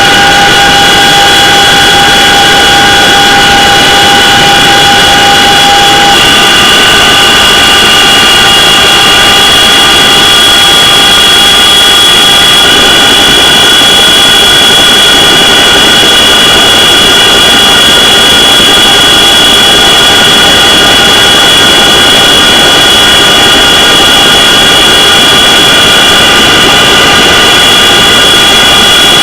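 CH-47 Chinook helicopter running, loud and steady: the high whine of its twin turboshaft engines over the rush of the rotors. One of the lower whine tones drops out about six seconds in.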